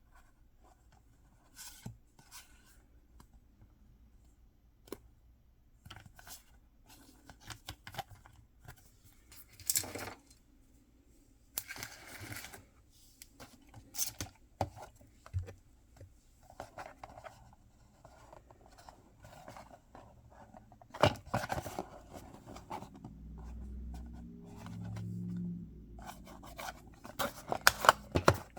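Packaging being opened by hand: scattered cutting, tearing and scraping of paper and plastic, with small clicks and knocks. A dense run of rasps and taps comes near the end, and a low rumbling handling noise just before it.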